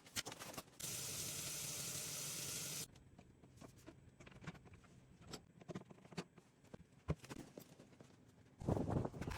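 A steady spraying hiss for about two seconds, then scattered light clicks and knocks, with a louder rough noise starting near the end.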